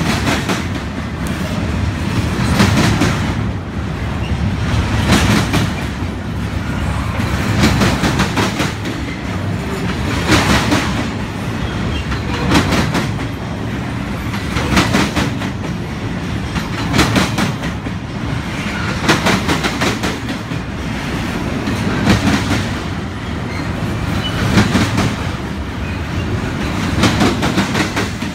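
Union Pacific double-stack container train rolling past, its well cars' wheels clacking over rail joints in clusters about every two and a half seconds over a steady rumble.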